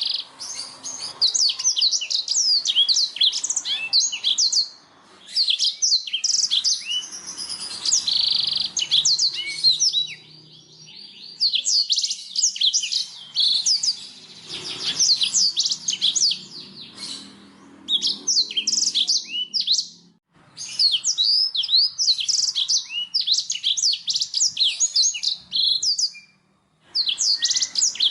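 Blackthroat (black-throated canary) singing: long, rapid twittering phrases made of many quick high chirps and sweeping notes, broken by short pauses of a second or so.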